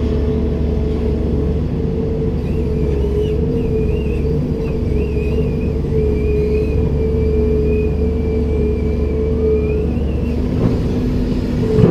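Komatsu PC290-10 excavator's diesel engine running steadily, with a deep rumble and a wavering mid-pitched drone. A thin wavering high whine rides above it from about two seconds in until about ten seconds in.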